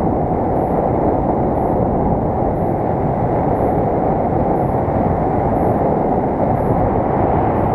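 Steady, loud wind rushing over the microphone during a paraglider flight, a dense low rumble with no break. A faint short high beep repeats about once a second.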